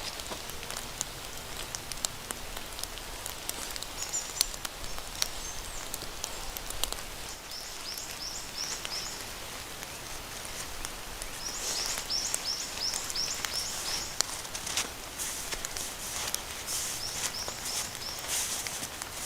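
Scattered crackles and sharp clicks, with two runs of quick, high repeated chirps, one about a third of the way in and a longer one just past halfway.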